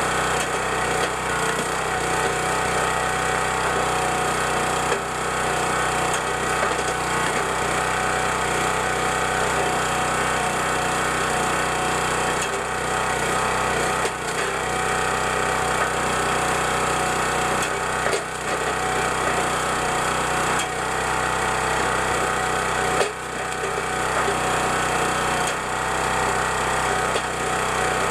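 Gas engine of a County Line 25-ton hydraulic log splitter running steadily while splitting wood, with a few sharp cracks as rounds break apart.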